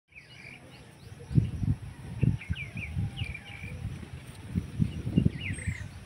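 Birds chirping, a scatter of short, quick notes, with a thin falling whistle near the end. Louder irregular low thumps on the microphone run underneath.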